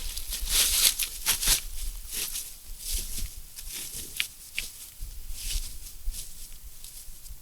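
Footsteps crunching through dry leaves and brush, irregular and uneven, with a low rumble of wind on the microphone underneath.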